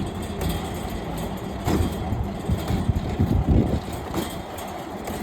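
Steel wheels of a pedal-powered rail bike rolling along railroad track: a steady rumble with a few louder knocks about halfway through.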